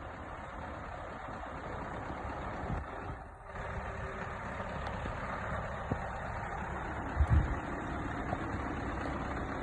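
Scania R730 truck's V8 diesel running steadily, with a few short low knocks about seven seconds in.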